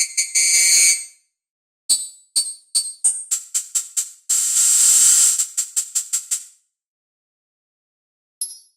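Brainworx bx_oberhausen software synthesizer playing a percussive sound-effect patch: runs of short, bright hits that come quicker and quicker, then merge into a held, bright noisy tone lasting about two seconds. After a silence of almost two seconds, new hits start near the end.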